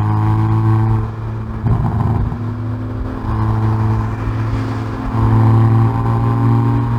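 Exhaust of a Hyundai i30N Performance's turbocharged 2.0-litre four-cylinder, heard at the rear bumper on track: it pulls with a slightly rising note, eases off about a second in with a short spell of crackle, runs more quietly, then gets louder again as the throttle opens about five seconds in.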